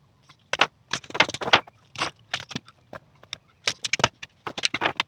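Irregular light clicks and rattles, a dozen or so short sharp ones with quiet gaps between, like small metal things being handled.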